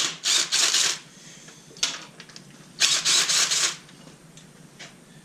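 Hand ratchet wrench being cranked on an engine bolt, two bursts of rapid clicking about a second long each, at the start and about three seconds in, with a single click between them.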